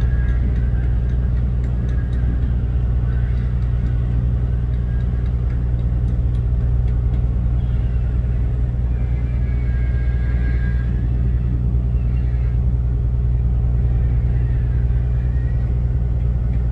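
Steady low drone of a ship's machinery, with a few faint wavering higher sounds in the middle.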